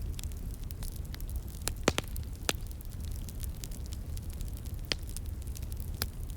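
Wood fire crackling: a steady run of small snaps and pops, with a few louder pops about two seconds in and again near five and six seconds, over a low steady rumble.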